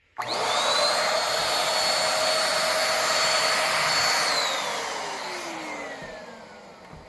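Corded vacuum cleaner with a powered roller head switched on, its motor rising quickly to a steady high whine. After about four seconds it is switched off and the motor winds down, the whine falling in pitch and fading over the last few seconds.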